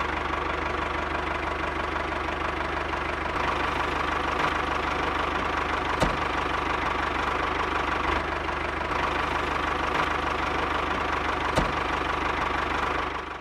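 The small motor and gears of a homemade model tractor running steadily as it pulls a loaded trailer, with a fast, even rattle. Two faint ticks come about six seconds and about eleven and a half seconds in.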